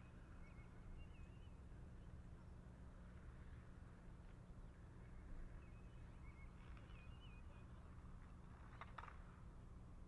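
Faint birdsong: a small songbird repeating a short warbled phrase twice, several seconds apart, over a low steady outdoor rumble. A brief, louder sound comes about nine seconds in.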